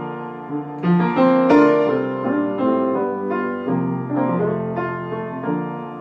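Piano playing chords in a short instrumental interlude between sung lines of a slow pop-jazz song, with a new chord struck every second or so.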